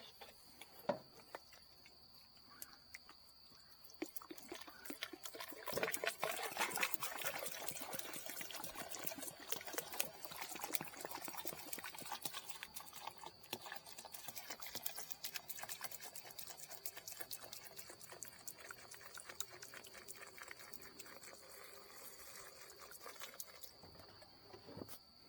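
A steady high-pitched insect trill, typical of crickets, runs throughout. Over it comes irregular crackling and clicking, densest a few seconds in and thinning out towards the end.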